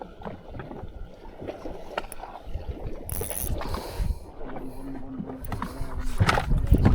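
Water slapping against the hull of a fishing boat at sea, with a rumbling low-end buffeting and scattered short knocks.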